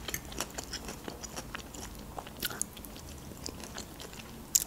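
Close-miked chewing of stuffed bell pepper: many small, soft, wet mouth clicks, with one sharper click near the end.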